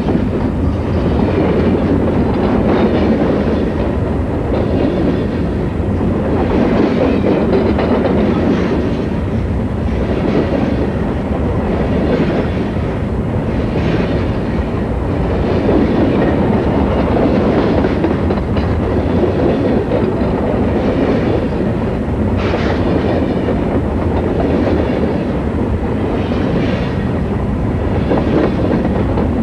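Freight train rolling past: a steady, loud rumble of steel wheels on rail, with regular clicks as the wheels cross the rail joints.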